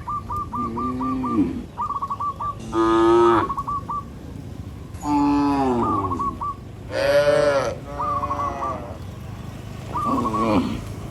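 Cows mooing, about six separate calls in quick succession, some low and some noticeably higher-pitched. A short, high chirping call repeats between them.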